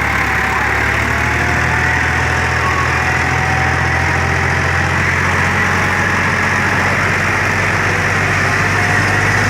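Sonalika 40 HP tractor's diesel engine running steadily at an even, low pitch.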